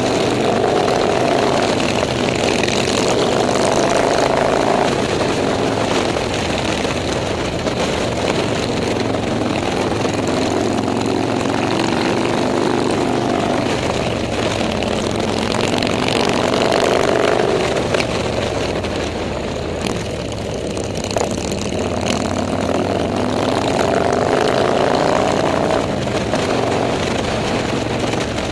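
Motorcycle engines running steadily, their pitch climbing several times as they rev up through the gears.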